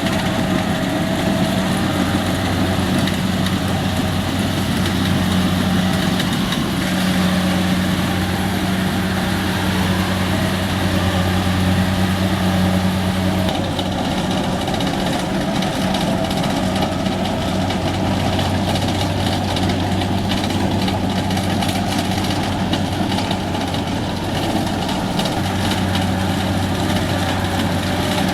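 Rice combine harvester's engine running steadily, with the constant whir and rattle of the machine at work.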